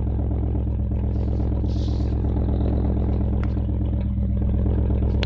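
BMW V8 with a straight-piped exhaust idling loud and steady just after a cold start.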